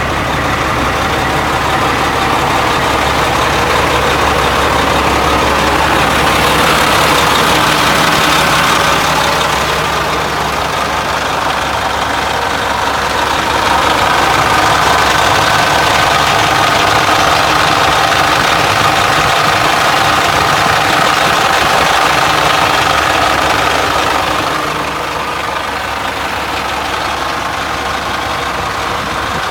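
Caterpillar diesel engine of a 2000 Sterling dump truck running steadily. It grows louder twice, for a few seconds about six seconds in and again for about ten seconds from around fourteen seconds.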